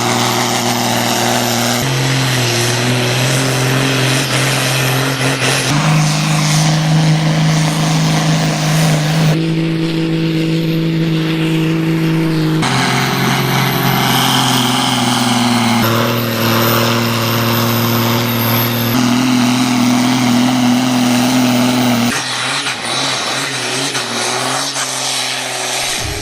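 Ursus tractor diesel engines running hard under load on a pulling track, in a run of short clips cut together every few seconds. Each clip holds a steady engine note, and the pitch jumps at every cut.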